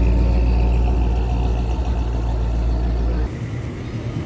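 Car driving past with a loud, deep engine rumble that drops off abruptly about three seconds in.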